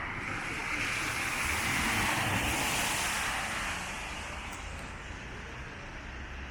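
A car passing on a wet street. Its tyre hiss swells to a peak about two seconds in, then fades away.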